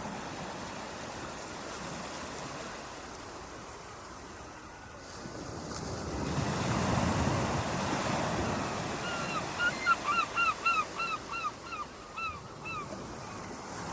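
Ocean waves washing in, swelling as a wave surges about six seconds in. Over the surf, from about nine seconds, a bird gives a quick series of about a dozen short calls.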